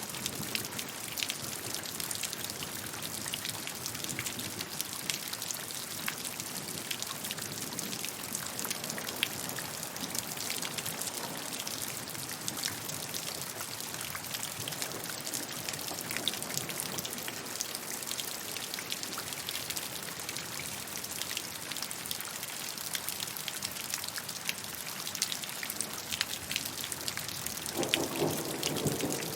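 Steady rainfall: a dense, even hiss with many separate drops ticking through it. Near the end a low rumble of thunder swells in.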